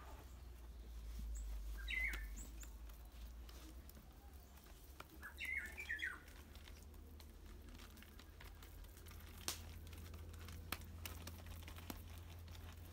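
A small bird chirping in two short bursts, about two seconds in and again around six seconds. Under it are a few faint soft taps as hands pat and press enset dough flat on a leaf.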